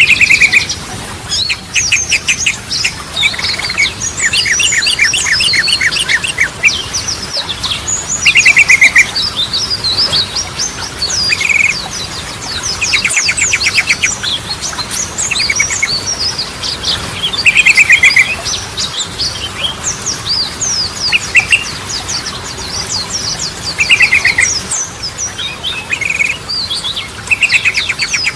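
Yellow-vented bulbul (trucukan) singing continuously, mixing short, fast rattling trills with quick chirping and sweeping notes.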